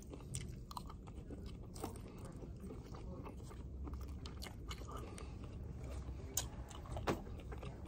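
Close-up chewing and mouth sounds of a person eating a mouthful of rice, with scattered light clicks from plastic utensils on a plate, over a low steady room hum.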